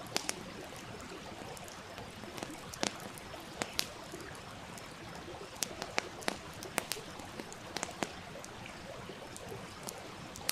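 Wood campfire crackling, with irregular sharp pops over the steady rush of a flowing stream.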